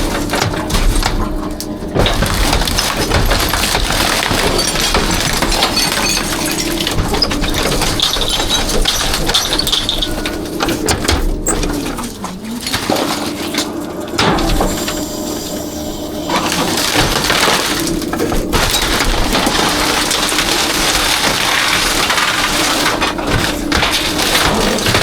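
Rear-loader garbage truck compacting trash, with glass breaking and crunching over the steady hum of the truck's engine and hydraulics; the hum dips and comes back about twelve seconds in.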